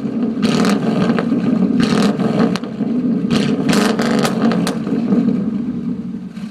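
1997 Chevrolet Tahoe's 350 V8 revved through true dual straight pipes with no mufflers, a loud raspy exhaust with the revs rising and falling. The level drops off near the end.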